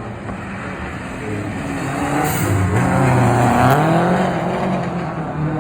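Rally car engine revving hard as the car drives past, its pitch dropping and climbing through gear changes and loudest a little past the middle.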